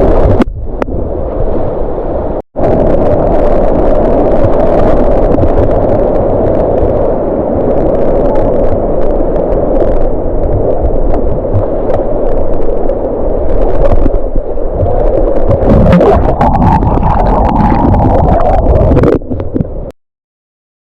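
Loud rushing white water with wind rumbling on the microphone, broken by a sudden cut about two and a half seconds in and stopping abruptly near the end.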